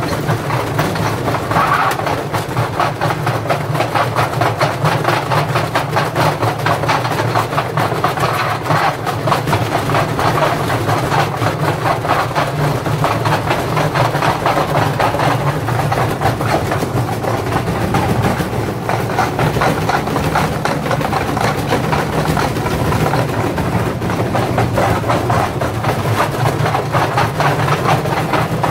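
Indesit washing machine running with heavy bricks in the drum: a steady drone from the turning drum and motor, under dense, rapid banging and rattling of the bricks against the drum.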